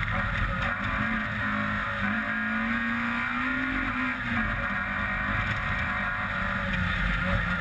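Peugeot 106 rally car's engine running hard on a stage. Its note climbs for a couple of seconds, drops sharply about four seconds in, then runs on steady.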